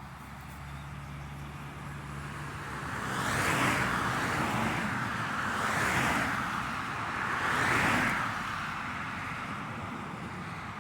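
Road traffic: three cars pass one after another, about two seconds apart, each swelling and fading away, over a low steady hum.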